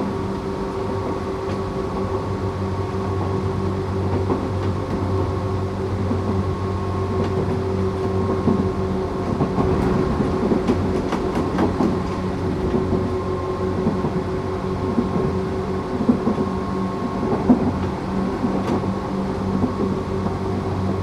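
Tokyu 8500 series electric train with Toyo-made traction motors, heard from inside the car running at steady speed: a steady hum and whine that holds its pitch over the rumble of the wheels. Short clicks and knocks from the running gear come several times, mostly in the middle and again near the end.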